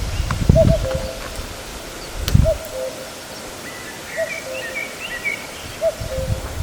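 Common cuckoo calling its two-note falling "cu-ckoo" four times at an even pace, with a small bird twittering in the middle and low rumbles of wind on the microphone.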